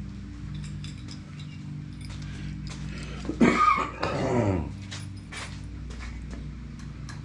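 Small metal screws and hardware clinking and tapping as they are handled, over a steady low hum. About three and a half seconds in, a loud drawn-out vocal sound slides down in pitch for about a second.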